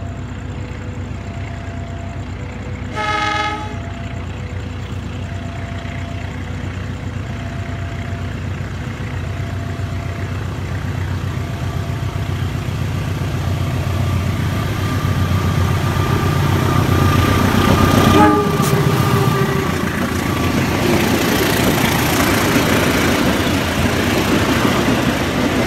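GE CC 206 (CM20EMP) diesel-electric locomotive sounds a short horn blast about three seconds in, then approaches with its engine and wheel rumble growing louder. It passes at its loudest around two-thirds of the way through, the pitch dropping as it goes by, followed by the clatter of passenger coaches rolling past.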